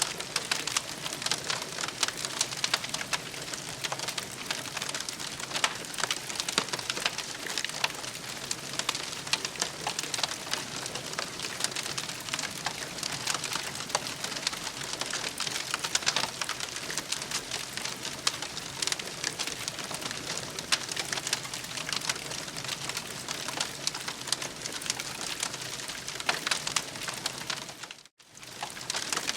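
Campfire crackling: a steady hiss with dense small pops and snaps. It drops out briefly near the end and then resumes.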